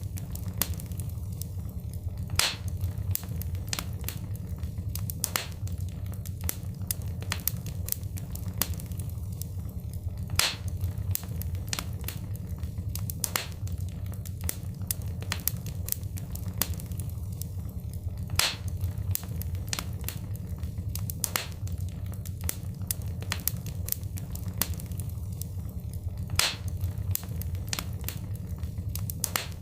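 Wood fire crackling: dense small pops and snaps over a steady low rumble of flames, with a louder pop about every eight seconds.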